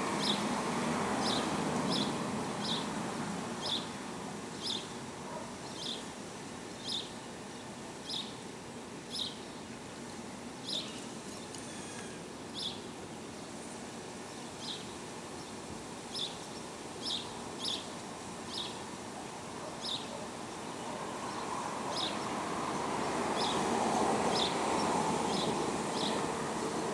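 A small bird chirping over and over, short high chirps coming at uneven intervals of about one a second, over a steady low background rumble that grows louder near the end.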